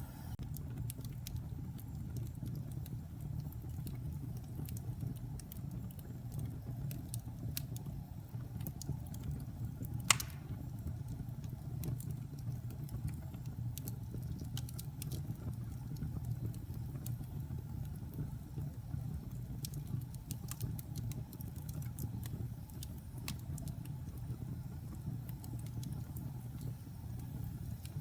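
Wood fire burning in a fireplace, crackling: scattered sharp crackles over a steady low rumble, with one loud pop about ten seconds in.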